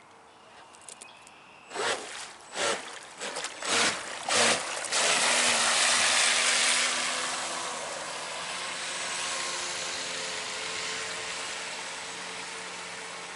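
Electric RC boat's motor and propeller blipped in about five short bursts, churning water while the boat is stuck on a rock. It then runs steadily with a hiss of spray that slowly fades.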